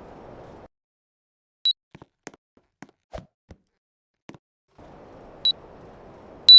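Three short, high beeps from an air conditioner's control, as it takes commands, the last one the loudest, with a few light clicks between them. A steady low hiss drops out for about four seconds and then returns.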